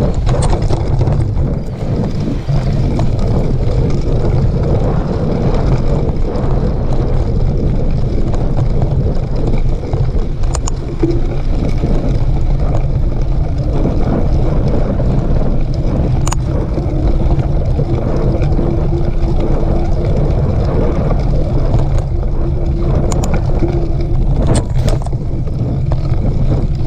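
Steady wind rush on the microphone of a camera riding on a mountain bike, with scattered clicks and rattles from the bike over rough trail.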